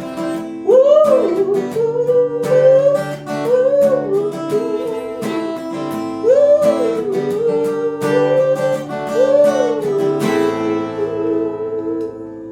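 An inexpensive acoustic guitar playing an instrumental break: strummed chords under a lead melody whose notes bend up and fall back. Near the end it settles on a chord left to ring.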